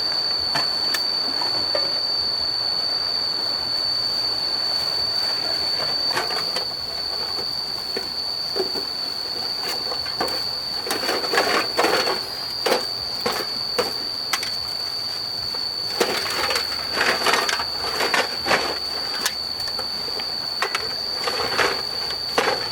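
A steady high-pitched whine that never stops, with irregular clatters and knocks of objects being handled, thickest about halfway through and again past the two-thirds mark.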